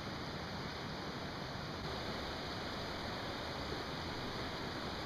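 Steady rushing of a mountain stream, an even unbroken wash of water noise.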